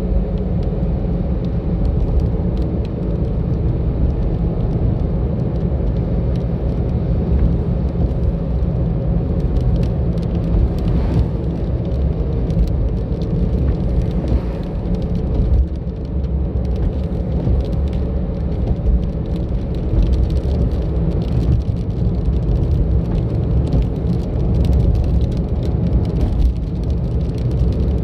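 A car driving along a road: a steady, loud, low rumble of engine and tyre noise that holds throughout, with a few faint ticks over it.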